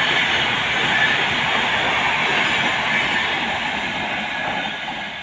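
Passenger express train of red coaches running past at speed: a steady rush and rumble of wheels on rail that fades as the last coach draws away near the end.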